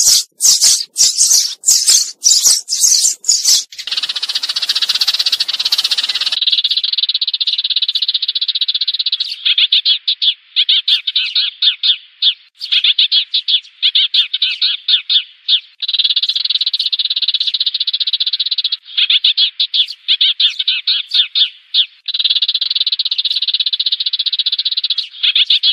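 Sparrow calls used as a lure to draw a flock: a few seconds of harsh, scratchy clicking, then rapid trilled chirping in phrases of two to three seconds with short breaks between them.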